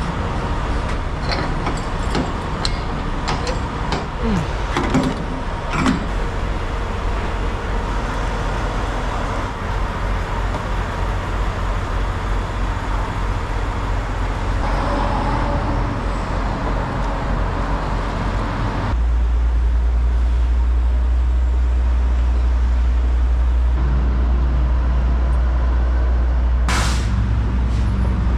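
Semi truck diesel engine running, with a few knocks and clicks early on. About two-thirds in, the sound changes to a heavier, steadier low engine drone, and a short hiss comes near the end.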